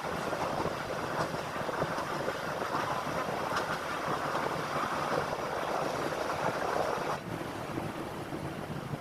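Express passenger train running along the line, a steady rumbling rush of wheel and track noise that drops suddenly in level about seven seconds in.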